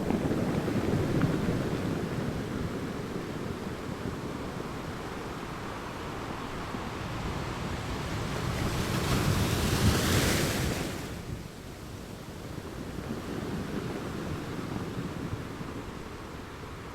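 Ocean waves washing onto the shore in a steady surf, with one louder wave breaking about ten seconds in and its wash dying away quickly after.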